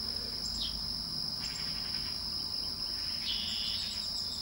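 Continuous high-pitched insect chorus, with a few short bird chirps over it.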